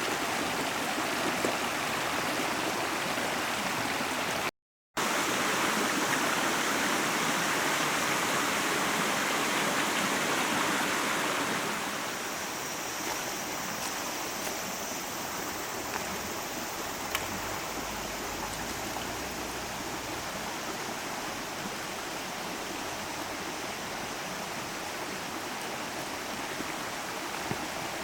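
Steady rush of flowing stream water, becoming quieter about twelve seconds in, with a few faint clicks.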